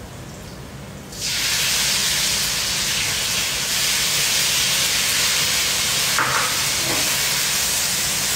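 Loud, steady sizzling of a spoonful of fried belacan (shrimp paste) hitting hot cooking oil in a wok. It starts abruptly about a second in.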